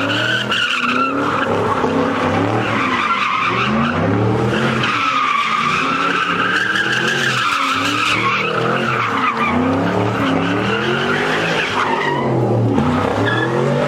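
Chevrolet Camaro spinning its rear tires in a burnout: the engine revs up and down over and over while the tires squeal, and the squeal drops away near the end.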